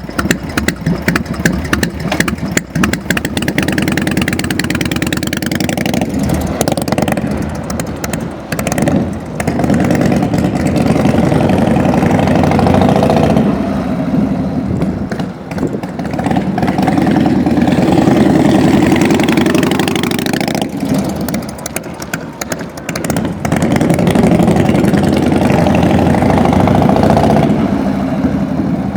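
1992 Harley-Davidson FXSTS Springer Softail's 1340 cc Evolution V-twin running with a pulsing idle, then revved up and held at higher speed several times, a few seconds each, dropping back to idle between.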